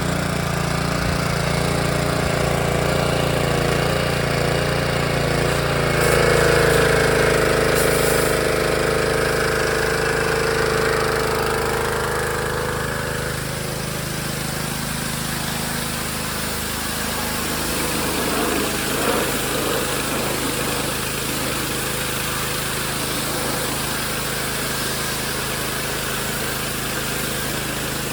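Yamaha pressure washer's small petrol engine running steadily, freshly started from cold. For several seconds, from about a quarter of the way in, a louder, higher tone rides over the engine before it settles back to an even running note.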